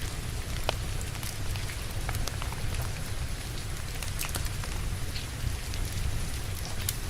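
Steady rain falling, with the crackle of a wood fire: scattered sharp pops over an even hiss and a low rumble.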